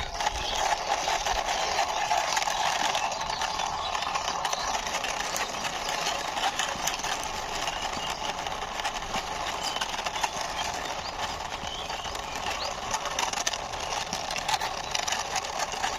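Plastic toy truck pushed along by hand, its wheels rolling with a steady rattling rumble.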